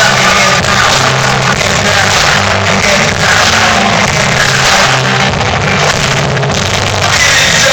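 Live rock band playing loudly at a concert, held bass notes under guitars and vocals, in a poor-quality recording from the audience.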